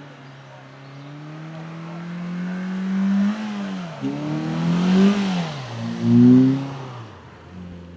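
Race car engine accelerating hard up the hill. Its pitch climbs through the gears with two quick upshifts, and it is loudest about six seconds in as it goes by, then fades.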